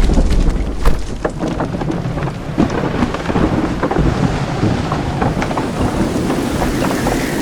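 Rain falling steadily with many small drop clicks, with a low rumble of thunder in the first second.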